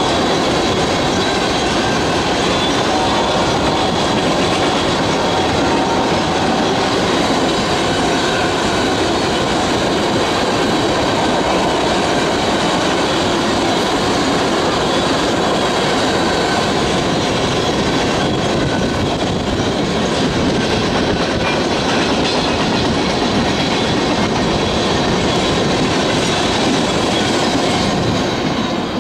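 Loaded crude oil tank cars of a long freight train rolling past, a steady rumble of steel wheels on the rails. The sound drops away near the end as the last car goes by.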